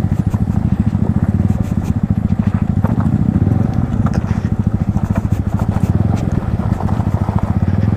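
Yamaha MT-15's 155 cc single-cylinder engine through an aftermarket Akrapovic exhaust, running steadily at low revs with a fast, even thump of firing pulses. Scattered light crackles of the tyres rolling over loose, rough ground run underneath.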